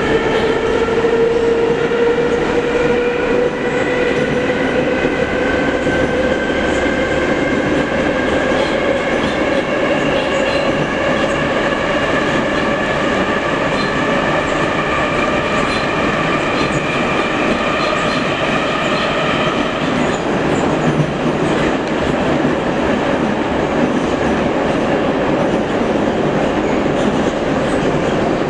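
Metro train running through a tunnel, heard from inside the car: a steady loud rumble and rattle of wheels on rail. Over it a whine of several tones slowly rises in pitch for about twenty seconds, then stops, leaving only the rumble.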